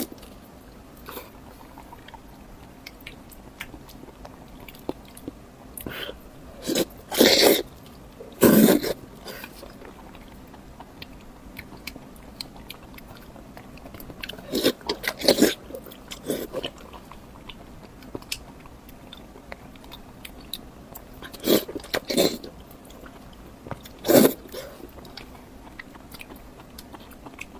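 Close-miked eating sounds: scattered bites and chewing in short loud bursts that come in small clusters, with quieter stretches of faint mouth noise between.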